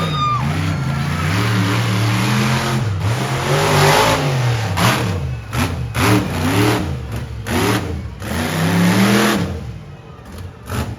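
Monster truck engine revving hard, holding high for a few seconds, then rising and falling in a series of blips as the throttle is worked.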